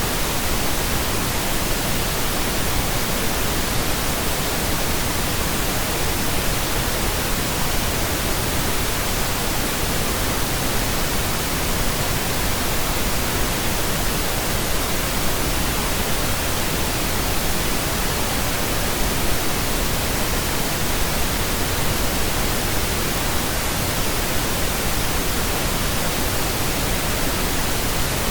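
Steady pink noise: an even, unchanging hiss spread across low and high pitches, with no tones or breaks.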